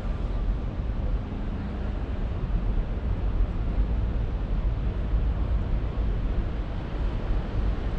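Steady low rumble with an even hiss above it: outdoor city ambience, with no single sound standing out.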